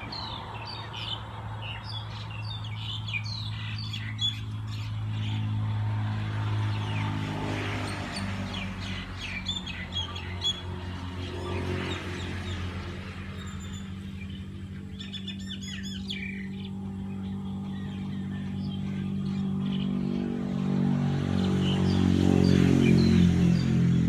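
Birds chirping and calling, many short, quick chirps, over low sustained background music chords that grow louder near the end.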